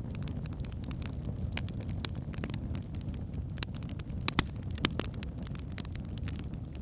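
Wood fire burning in a fireplace: a steady low rumble of flames with irregular sharp crackles and pops from the logs, the loudest pops a little after four seconds in and just before five.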